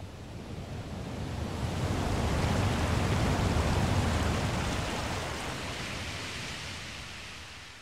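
Ocean surf: a single wave washing in, a rush of noise that swells to its loudest about three seconds in and then ebbs away.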